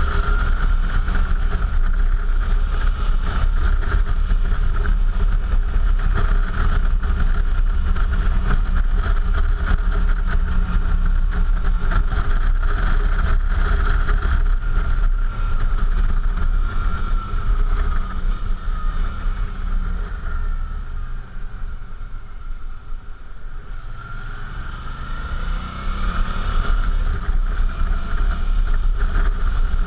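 Suzuki V-Strom motorcycle engine running under way, with heavy wind rumble on the GoPro microphone. The engine eases off and quietens about two-thirds through, then its pitch rises again near the end as the bike accelerates.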